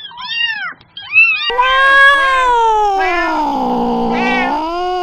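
Domestic cats meowing: two short, high kitten mews, then from about a second and a half in one long drawn-out meow that slides down in pitch and rises again near the end.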